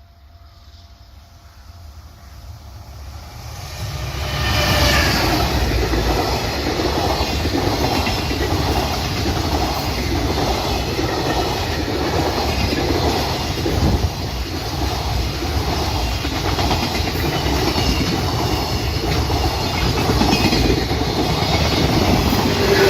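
Freight train coming up and passing close by. The sound builds over the first four seconds, then holds loud and steady as the wagons roll past with a rhythmic clickety-clack of wheels.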